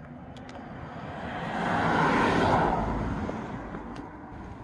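A passing vehicle: a broad rushing noise that swells to a peak about two seconds in and fades away. A couple of faint clicks sound near the start and near the end.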